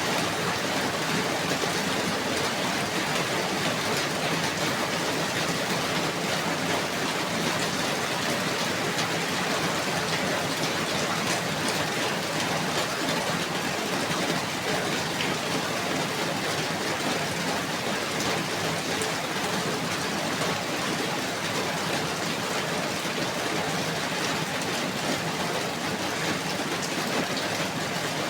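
Steady rain falling, an even hiss with many fine drop ticks and no change in strength.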